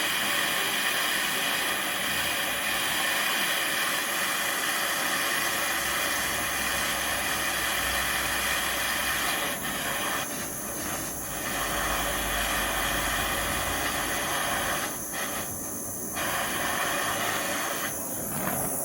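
Gas torch flame hissing steadily while heating steel to straighten a bent steering rod. The hiss briefly drops off a few times in the second half.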